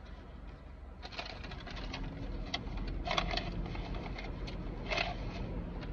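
Paper bags and food packaging rustling and crinkling, with many short crackles, over a low steady hum.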